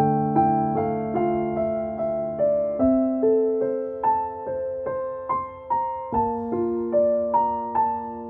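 Background music: gentle piano playing a steady run of single notes over sustained chords, the chord changing twice.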